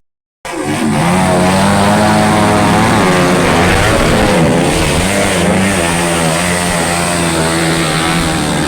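Several dirt-bike motorcycle engines running and revving together at high revs, with overlapping engine notes rising and falling. It cuts in abruptly about half a second in.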